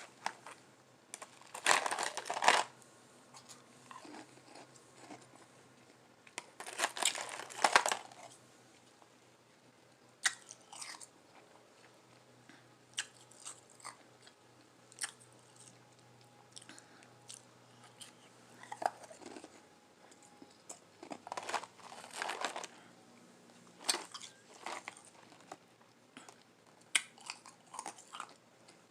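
Close-miked biting and chewing of frozen lime-flavoured ice, a soft crunch. The loudest bites come about 2 s in, about 7 s in and about 22 s in, with quieter crackling chews between.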